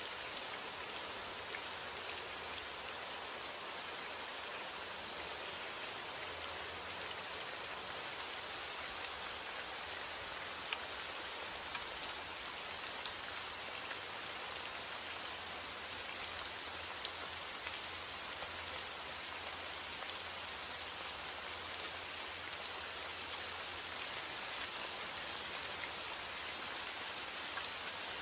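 Heavy rain falling steadily: a dense, even hiss with scattered ticks of individual drops striking a surface.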